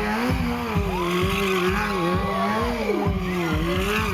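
Stunt motorcycle engine held at high revs, its pitch wavering up and down with a regular stutter. About a second in, a higher squeal rises, holds for roughly two seconds and falls away.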